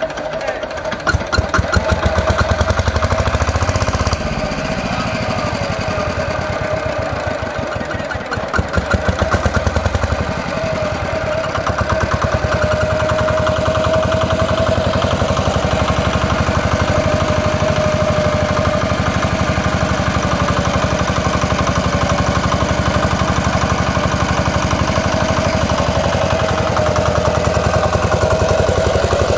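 Small diesel engine running a 3 kW generator, with a rapid, even knocking beat. It runs louder in two short spells, a second in and about nine seconds in, then settles to a steady run with a constant whine over it.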